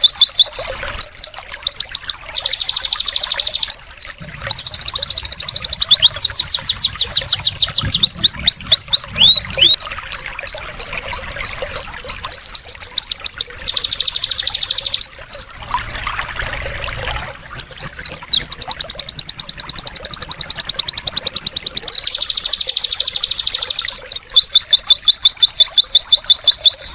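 White-eye (pleci) song: long, fast, high chattering trills of rapidly repeated notes, with a faint trickle of water beneath. The song breaks off briefly about a second in and again around the middle, leaving only the water.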